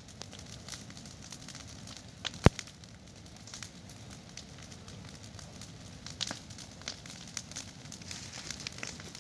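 Large wood bonfire of burning branches crackling and popping over a low rumble of flames. One single loud, sharp pop about two and a half seconds in is the loudest sound.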